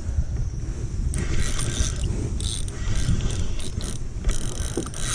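Fishing reel working against a hooked fish: its gears and drag clicking and whirring in irregular bursts, over a steady low rumble.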